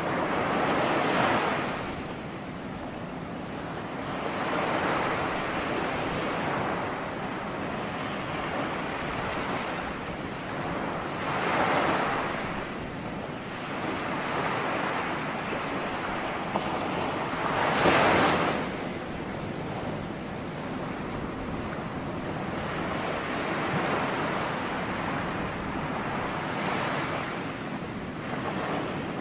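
Ocean waves breaking and washing in a steady surf, each wave swelling and fading every several seconds, the loudest about two-thirds of the way through.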